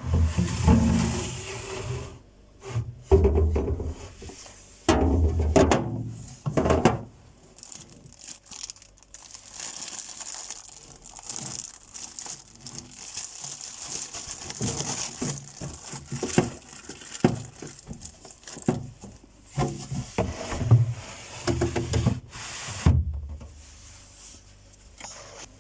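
Kitchen handling noises while a refrigerator is being stocked: food containers and items set down with a few dull thuds, and plastic rustling and scraping in between.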